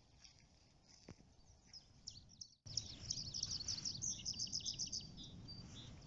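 Wild birds singing: scattered high chirps, then, after an abrupt change about two and a half seconds in, a rapid trill of repeated high notes, over faint low background noise.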